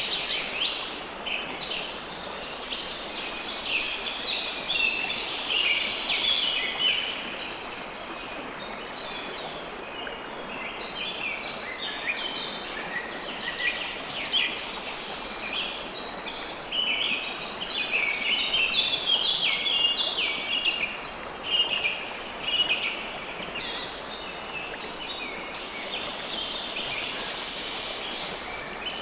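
River water flowing steadily, with many birds chirping over it in short, overlapping high notes all the way through.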